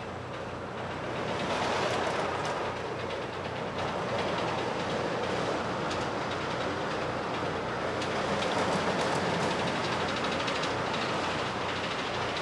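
Roller coaster train running along its track: a steady rumble with a rapid clatter of wheels that grows louder about a second in.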